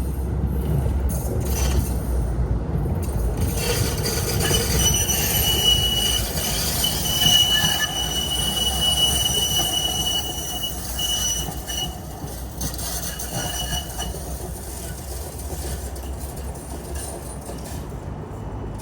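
PKTS 71-931M Vityaz-M tram running on rails, with a low steady rumble and the wheels squealing against the rails in a high steady whine for about ten seconds in the middle, fading out after.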